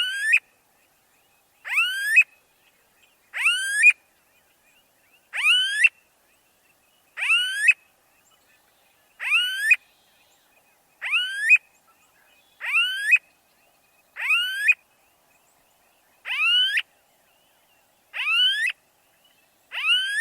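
A bird call repeated about every two seconds, roughly a dozen times: each call is a short, two-part note sweeping upward in pitch.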